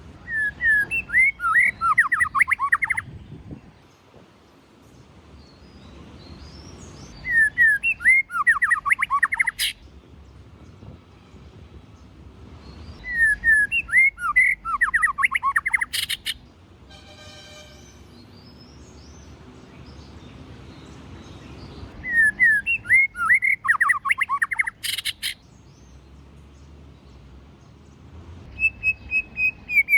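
White-rumped shama singing: four separate phrases of rapid whistled and chirping notes, each two to three seconds long, with gaps of several seconds between them. A short buzzy note comes in one of the pauses, about halfway through.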